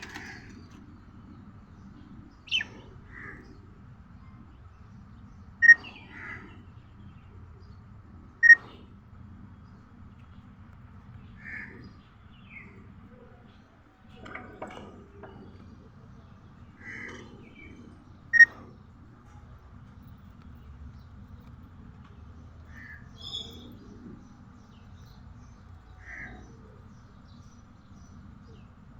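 Budgerigar giving short, sharp single chirps every few seconds, a few of them loud and the rest softer.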